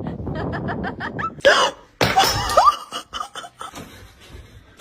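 A person laughing in quick, even bursts, breaking into a few louder outbursts about a second and a half in, then trailing off.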